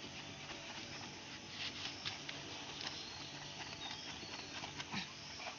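Irregular light clicks and scrapes of a knife working at an eel's tough body, over a steady low hum.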